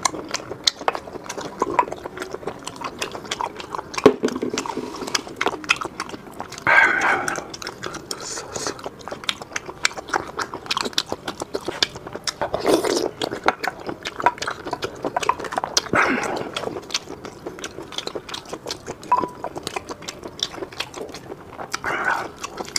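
Close-miked chewing and lip-smacking of sea whelk meat: a steady run of wet mouth clicks, with a few louder mouth noises now and then.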